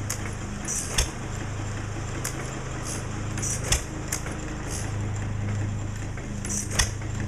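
Engine running steadily with a low hum, with three sharp clacks about three seconds apart.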